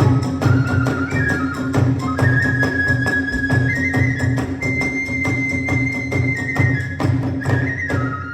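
Hiroshima kagura ensemble music: a bamboo flute holds long high notes over a fast, even beat of drum strokes and small hand cymbals. The music dies away near the end.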